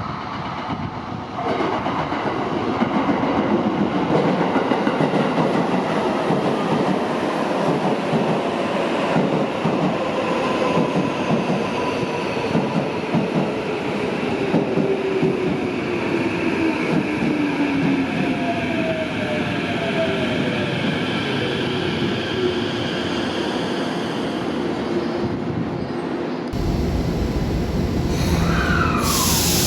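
Electric commuter train running on rails: steady wheel and running noise, with a motor whine sliding down in pitch. About 26 seconds in the sound cuts abruptly to a train pulling out of a station.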